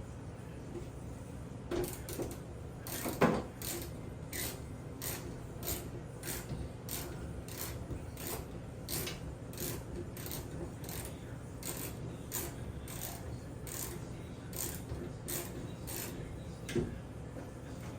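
Ratchet tool clicking in an even rhythm, about one and a half clicks a second, as fasteners are worked loose or tight, with a louder clack about three seconds in and another near the end. A steady low hum runs underneath.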